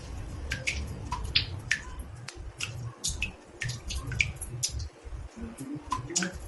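Water drops falling into a bathtub: an irregular patter of small plinks, several a second, some with a short pitched ring, over a low rumble.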